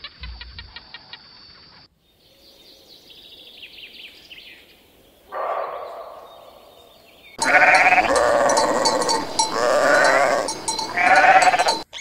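Antelope bleating: a short call about five seconds in, then a run of loud, drawn-out bleats over the last four seconds. Faint rapid clicking is heard in the first two seconds.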